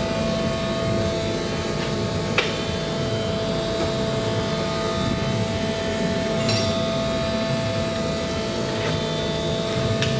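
Steady mechanical drone with a constant whine running throughout, broken by three short, sharp clicks or knocks: about two seconds in, about six seconds in, and at the very end.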